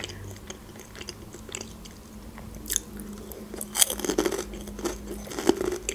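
Close-mic'd chewing of a Raffaello coconut wafer candy: soft wet mouth sounds with scattered small crunches, busier about three to four seconds in.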